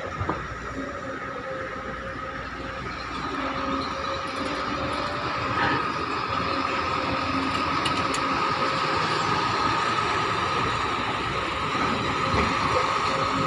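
Excavator's engine and hydraulics running steadily, with a high whine over a lower hum, growing gradually louder.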